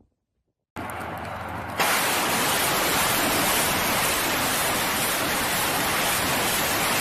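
Thermobaric rocket launcher firing: a steady rushing roar that starts abruptly, then gets much louder about a second later and holds.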